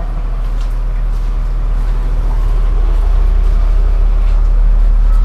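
A motorcycle engine running steadily at idle, its low throb slowly getting a little louder.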